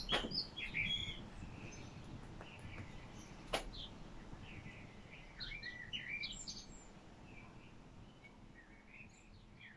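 Faint bird chirps and short calls, scattered through, with a single sharp click about three and a half seconds in.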